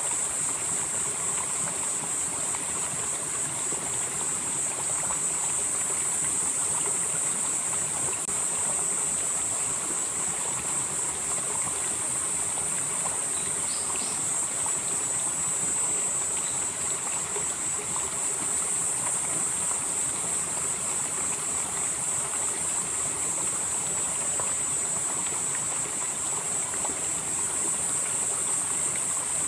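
Valley stream flowing steadily over rocks, with a high-pitched buzz over it that swells and fades every several seconds.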